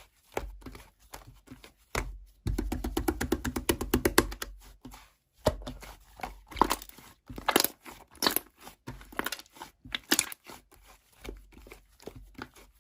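Slime being squeezed and poked by hand, crackling and popping. There is a fast run of clicks a few seconds in, then scattered pops.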